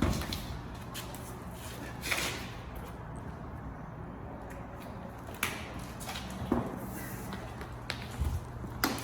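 A few scattered knocks and clicks, as of tools and gear being handled, over a steady low hum.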